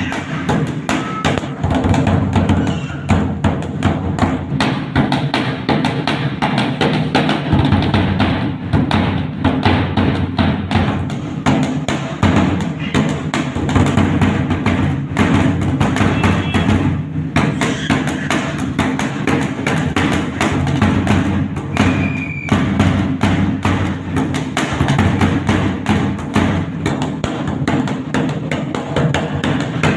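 Dhak, a large two-headed barrel drum, played with sticks in a fast, continuous rhythm of dense, rapid strokes.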